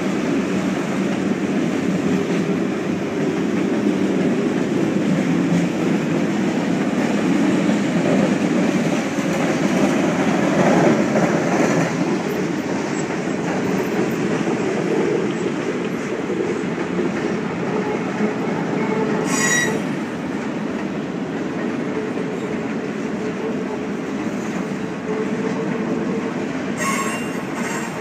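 Freight train cars rolling past: a steady rumble and rattle of wheels and car bodies on the rails, with brief high wheel squeals about two-thirds of the way through and again near the end.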